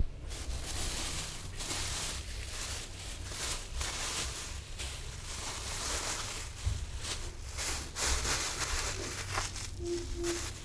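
Wind rushing over an action camera's microphone while riding a motor scooter, surging and easing every second or so over a low rumble. Two short tones sound near the end.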